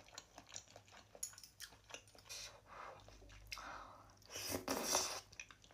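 Close-miked chewing of food, with many small wet mouth clicks and a louder crunchy bite about four and a half seconds in.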